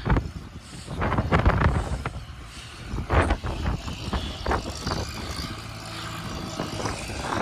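Strong wind buffeting the microphone in uneven gusts, a heavy low rumble, with a faint steady low hum underneath in the second half.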